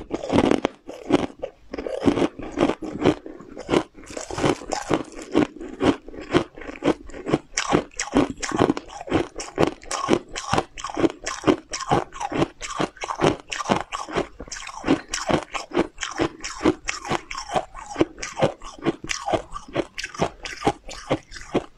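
Close-miked crunchy chewing of hard cookies: a steady, rhythmic run of crisp crunches and crackles as the pieces are ground between the teeth.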